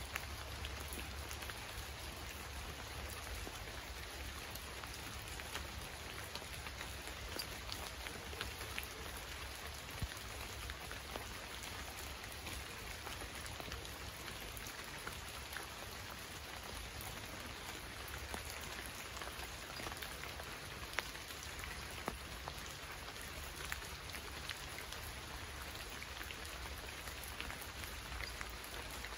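Steady rain falling, an even hiss dotted with the ticks of individual drops, and a few sharper drop clicks now and then.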